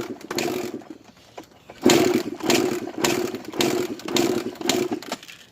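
Single-cylinder two-stroke engine of a 1993 Suzuki RM125 dirt bike firing in a string of short bursts, about two a second, with a brief lull partway through. It sputters rather than running cleanly, with its carburettor flooding.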